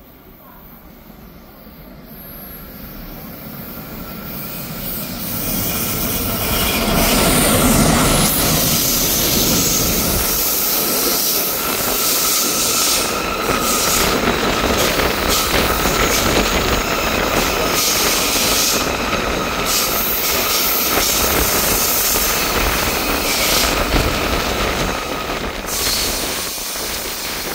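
Freight train passing, growing louder over the first several seconds and easing off near the end. The wagons rumble and clatter, with a high, steady wheel squeal running through the loud part.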